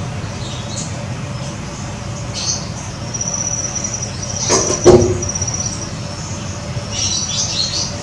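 Small birds chirping: high, fast trilled chirps and short calls, with a denser flurry near the end. There is a loud sharp knock about five seconds in, over a steady low hum.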